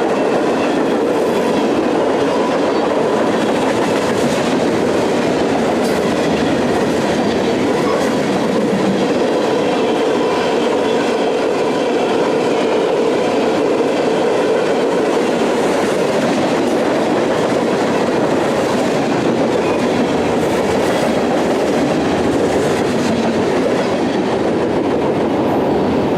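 Freight train cars rolling past, a steady rumble of steel wheels on rail with clicks over the rail joints.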